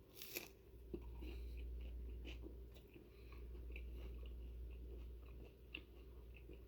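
A person biting into a toasted grilled cheese sandwich, with a crisp crunch about a third of a second in, then quiet chewing.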